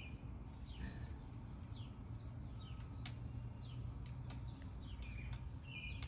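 Small birds chirping in the background: short, high chirps every second or so, over a steady low rumble.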